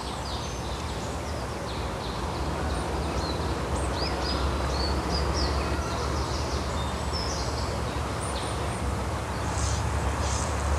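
Wild birds singing: many short chirps and whistled notes, with a quicker run of repeated notes near the end, over a steady outdoor hiss and a low hum.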